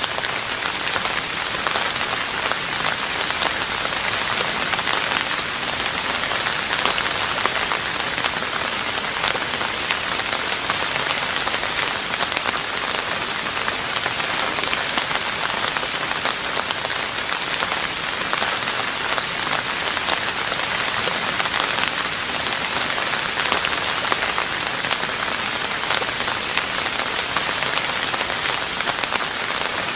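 Steady rain falling on a roof: a dense, even patter of countless drops that holds the same all through.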